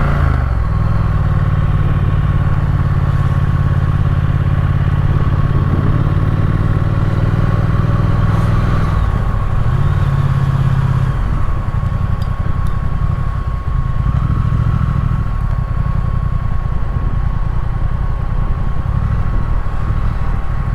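Triumph Speed Twin's parallel-twin engine running under way, steady and loud. The engine note shifts just after the start and again about eleven seconds in.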